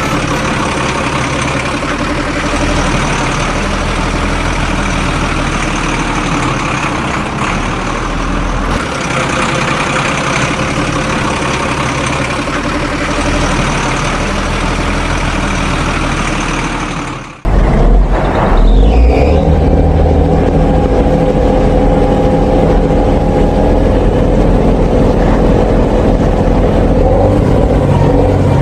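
Heavy machine engine running steadily, as for a backhoe loader or tractor. About 17 seconds in it cuts off abruptly and gives way to a louder engine sound with a steady whine over a low rumble.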